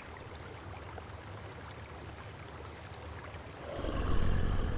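Flowing river water, a steady rushing, with a deep low rumble swelling up near the end.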